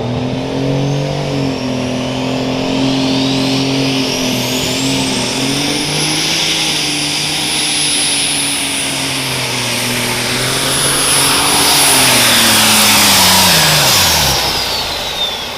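Light super stock pulling tractor under full power on a pull, its engine running hard with a high turbocharger whine that climbs during the first few seconds and then holds. From about twelve seconds in, the engine and the whine wind down together as the pass ends.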